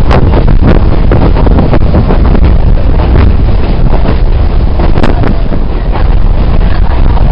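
Passenger train running at speed: a loud, steady low rumble with frequent irregular rattling knocks, and wind buffeting the microphone.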